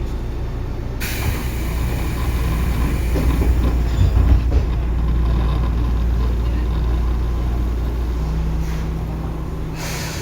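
Tobu 9050 series electric train running on the line, heard from on board: a steady low rumble of wheels on rail, with the noise suddenly growing brighter and hissier about a second in and a steady low hum setting in near the end.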